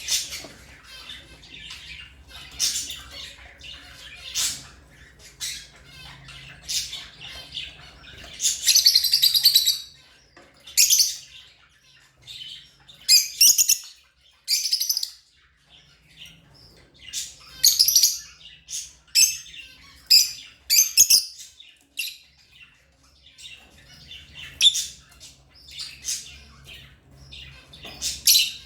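Lovebirds chirping in quick, high-pitched bursts of calls, with a longer, louder run of chattering about eight seconds in.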